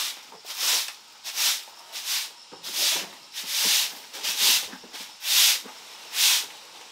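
A run of short swishing strokes, about nine or ten at a steady pace of a little more than one a second, like a tool or broom working back and forth.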